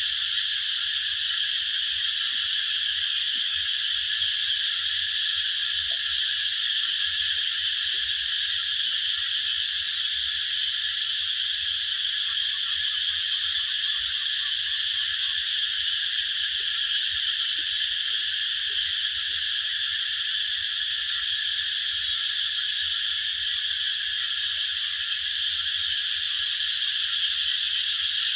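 A steady, unbroken chorus of calling animals: many voices blended into one even shimmer, with no single song standing out.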